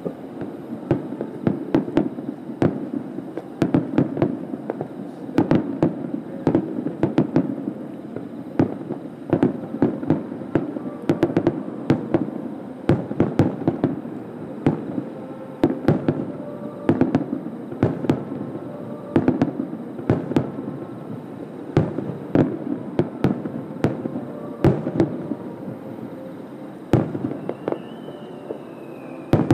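Aerial firework shells bursting in a rapid barrage heard from about a kilometre away: dozens of sharp booms, many overlapping, over a continuous rumble. A short whistle rises and falls near the end.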